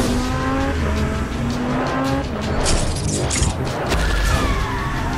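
Dubbed-in sports car engine sound effect revving up in a series of short rising sweeps, like shifting up through the gears, then a burst of hissing skid.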